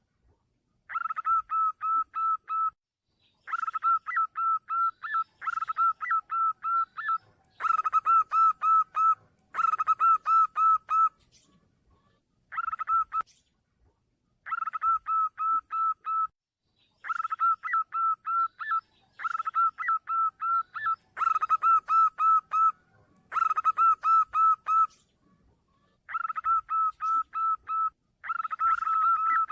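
Zebra dove (perkutut) song used as a lure call: about a dozen phrases of quick, repeated cooing notes, each phrase one to two seconds long with short pauses between.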